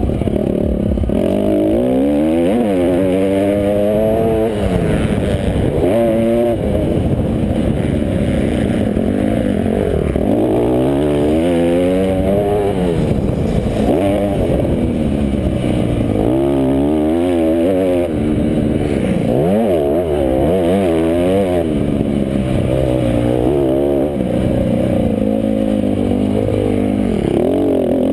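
Several motocross bikes racing, their engines revving up and dropping back again and again, the pitches of different bikes overlapping and crossing.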